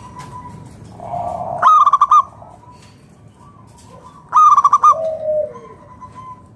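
Zebra dove (perkutut) singing: a soft low coo, then a loud, rapidly stuttering coo phrase, repeated about two and a half seconds later and followed by a falling coo.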